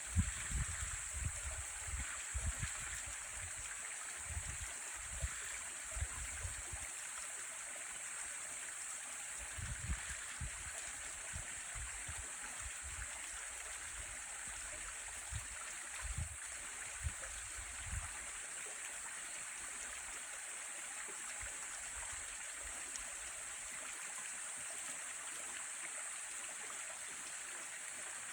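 Mountain valley stream flowing over rocks: a steady rushing and gurgling of water. Irregular low rumbles come and go through the first two-thirds, then stop.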